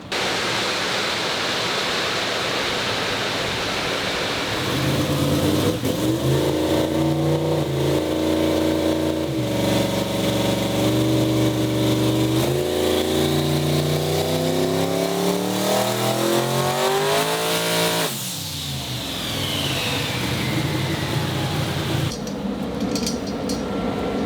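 A vehicle engine revving hard and accelerating. Its pitch climbs in stages with short breaks, then rises in one long pull that stops about eighteen seconds in, followed by a steadier, lower engine sound.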